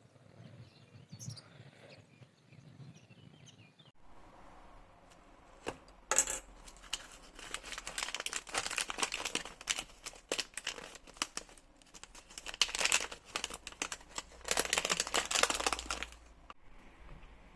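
Crinkling and rustling handling noise, in several stretches of dense crackling with sharp clicks from about six seconds in, stopping a little before the end.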